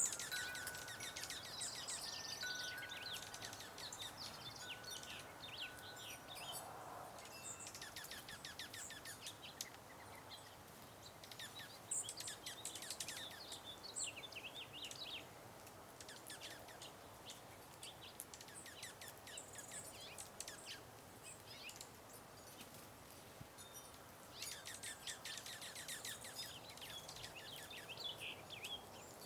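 Several small songbirds chirping and calling, in short, quick, overlapping notes that come in flurries, busiest near the start, about halfway through, and near the end.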